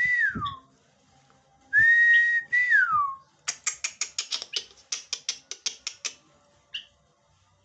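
Asian pied starling calling: a loud held whistle that glides down at its end, then a quick run of about fourteen sharp clicking notes at roughly five a second, and one short note near the end.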